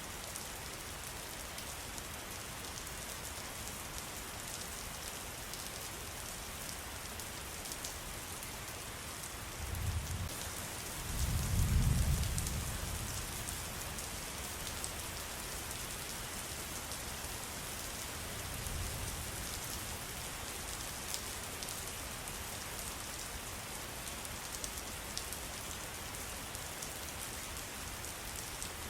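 Steady rain falling: an even hiss with many small crisp drop ticks. A low rumble swells and fades about ten to thirteen seconds in, with a fainter one a few seconds later.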